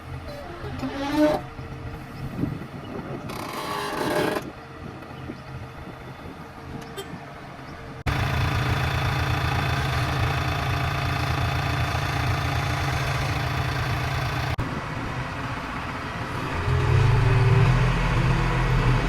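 JCB 3DX backhoe loader's diesel engine running while digging, with two short hisses in the first few seconds. The sound jumps abruptly to a louder, steady engine note about eight seconds in, and the engine revs up near the end.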